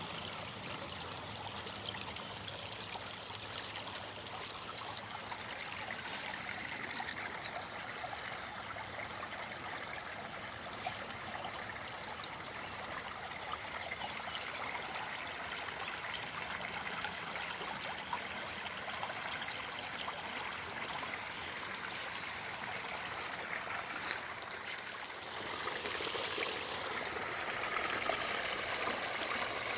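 Stream water flowing and trickling steadily, with one sharp click about 24 seconds in; the flow grows a little louder near the end.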